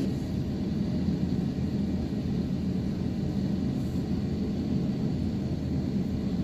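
Steady low rumble inside the cabin of an Airbus A350-900 on the ground after landing, with a faint steady high whine above it.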